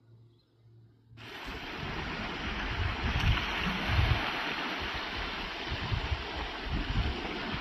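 After about a second of near silence, a loud, steady rush of water starts abruptly, with wind gusting on the microphone as irregular low rumbles.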